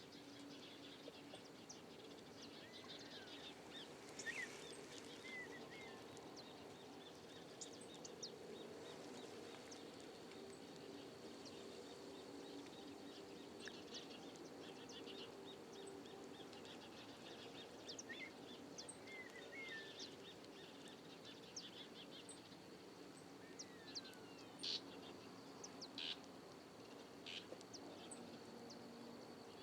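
Faint riverside ambience: birds chirping and calling now and then, over a low steady hum and a thin, steady high tone.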